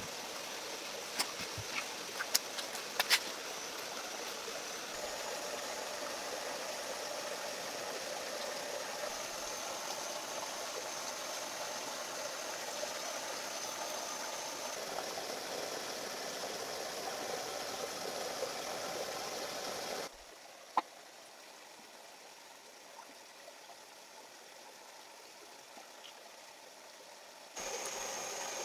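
Steady rushing noise like running water, with a few sharp clicks in the first few seconds. About two-thirds of the way through it drops suddenly to a quieter hiss, then comes back near the end.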